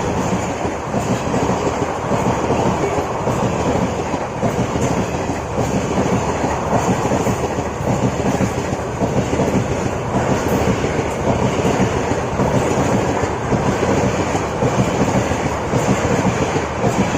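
Passenger train running at speed, heard on board: a steady rumble and rush of wheels on rails with light clickety-clack.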